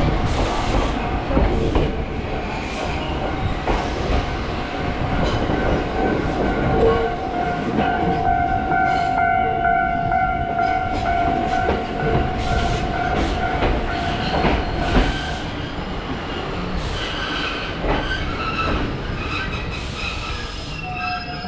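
A Choshi Electric Railway train running, heard through the car's open windows: a steady rolling rumble with scattered clicks of wheels over rail joints. A high wheel squeal rises out of it about six seconds in and holds for roughly nine seconds.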